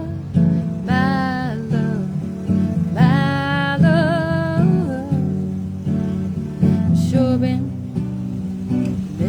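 Acoustic guitar strummed steadily, with a woman's voice singing two long notes, about one and three seconds in.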